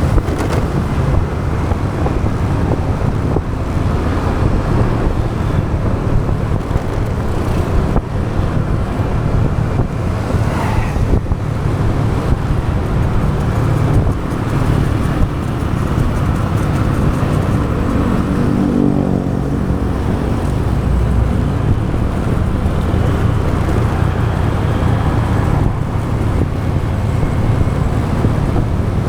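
Motorbike riding in road traffic: the bike's engine running steadily under road and wind noise, with other vehicles around. About 17 to 20 seconds in, a separate engine note rises above the rest, as of a vehicle passing close.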